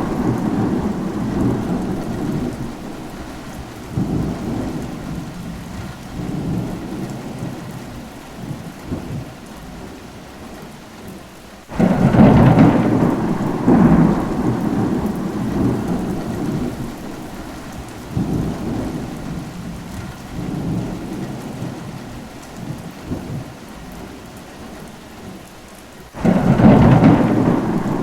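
Steady rain with rolling thunder. Thunder breaks suddenly and loudly about twelve seconds in and again near the end, each peal rumbling low and dying away over several seconds, with fainter rumbles in between.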